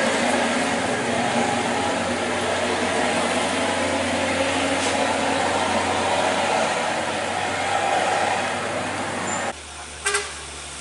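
A truck engine running loud and steady over heavy road noise. Near the end the sound drops suddenly to a quieter engine hum, and a single sharp click follows.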